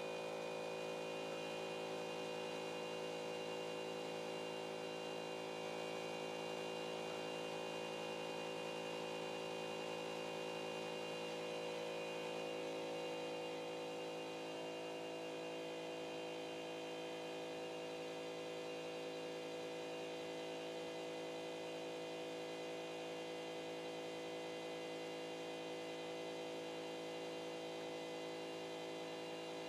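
Stepper motors of a CNC pen-drawing machine humming steadily as it moves the pen, with a cluster of steady tones that shifts slightly about halfway through.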